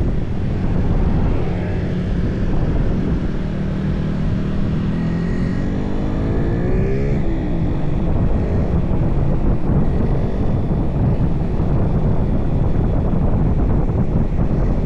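Motorcycle riding on the road, its engine running under steady wind rush on the microphone. About four seconds in an engine note climbs in pitch, then drops away near the seven-second mark.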